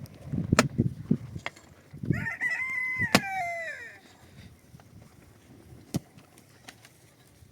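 A rooster crows once, about two seconds in, a call of nearly two seconds that drops in pitch at its end. Several sharp knocks sound around it, one in the middle of the crow.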